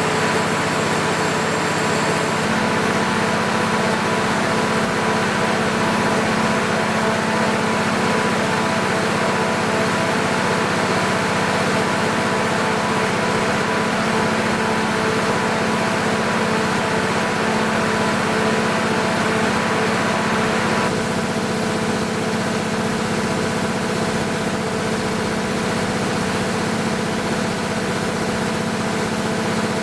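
MEP-006A military generator's six-cylinder diesel engine running steadily during a load test after a full overhaul. Its tone shifts slightly about two seconds in and again about twenty seconds in, becoming a little quieter.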